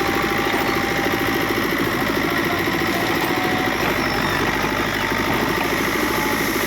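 Diesel engine of a heavy construction machine running steadily with an even rapid pulse, holding one speed with no revving.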